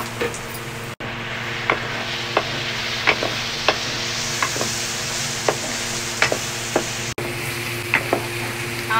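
Onions, tomatoes and spices sizzling in a frying pan while a wooden spoon stirs them, knocking and scraping against the pan about once or twice a second. The sound drops out for an instant twice.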